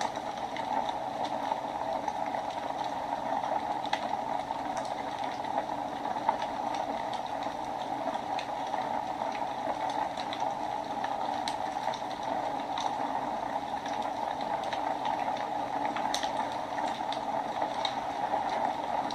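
Wood fire burning in a fireplace: a steady rushing hiss with scattered small crackles and pops.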